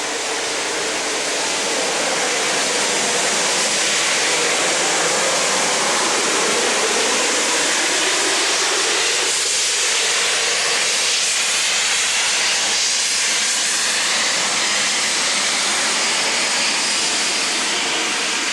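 Great Western steam auto train departing, heard as a steady, loud rushing hiss of steam and running noise.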